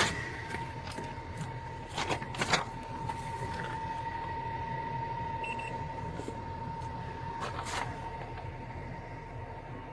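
Steady low rumble of an idling vehicle with a thin, steady high whine over it, and a few short clicks of handling, about two and two and a half seconds in and again near eight seconds.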